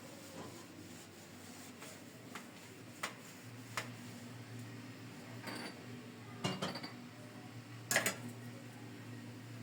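Dishes and cutlery clinking as they are handled: scattered single clinks, a cluster of louder clatters past the middle, and the loudest clink about eight seconds in.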